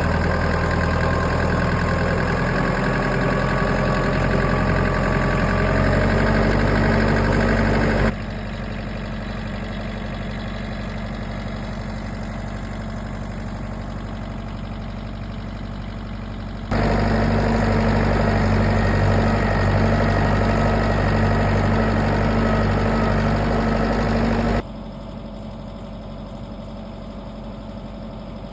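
A vehicle engine idling steadily, its level jumping up and down abruptly three times between shots.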